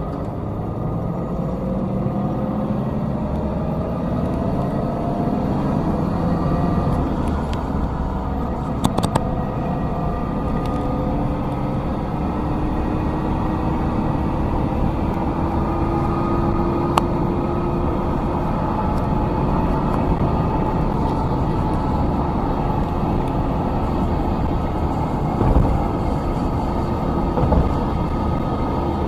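Diesel engine of heavy road-construction machinery running steadily, its pitch drifting slowly up and down, with a few brief clicks.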